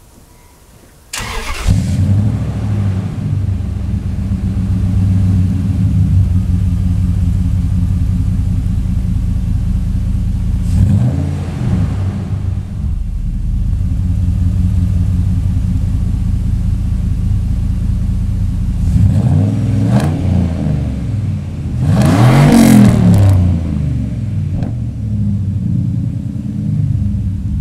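Warm 2000 Dodge Dakota 4.7 L V8 starting through an MBS stainless steel catback exhaust: a brief crank about a second in, then it catches and idles. Several quick throttle blips follow, the biggest rev about three quarters of the way through, before it settles back to idle.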